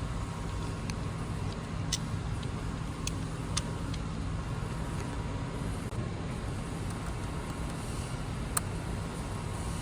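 Steady low rumble of background road traffic, with a few short, sharp clicks as tools work on the car battery's terminal hardware; the sharpest comes near the end.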